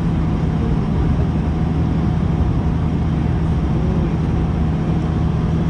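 Twin turboprop engines of a De Havilland Canada Dash 8-400 running steadily, heard inside the cabin as a constant low propeller drone over engine noise.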